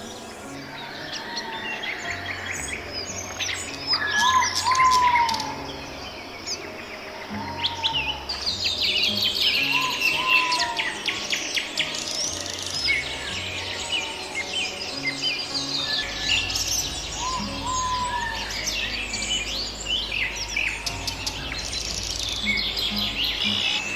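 A chorus of several songbirds chirping and trilling over one another, dense and continuous, with a lower clear whistled call, rising then falling, repeated every few seconds.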